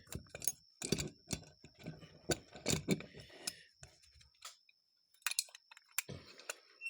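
Small metal parts of a Rochester Model H carburetor clicking and tapping irregularly as a piece is worked back into the carburetor body, with a duller knock about six seconds in.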